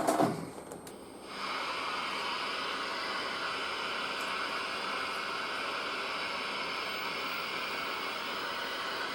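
Steady hiss of static from a 1959 Zenith tube TV set, starting abruptly about a second in and holding even.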